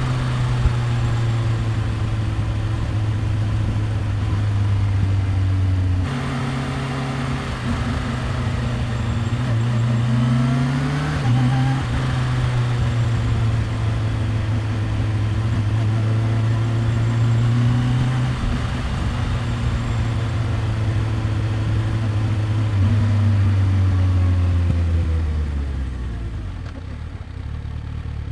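Kawasaki Ninja H2's supercharged inline-four engine and exhaust running at low revs. The revs rise and drop a few times, then fall away near the end as the bike slows to a low, steady idle.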